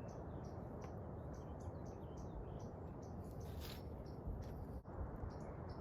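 Short high chirps from a small animal, repeating about two or three times a second, over a steady low rushing background.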